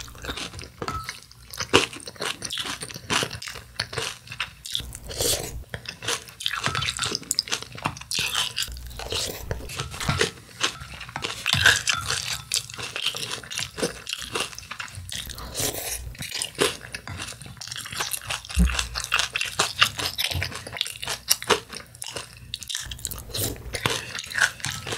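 Close-miked chewing and crunching of crispy cereal in milk, a steady run of irregular crackles and mouth sounds, with the spoon stirring in the ceramic bowl.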